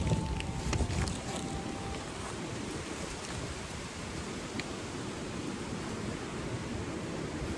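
Wood campfire burning, with a few sharp crackles in the first two seconds and another about halfway, over a steady rushing noise.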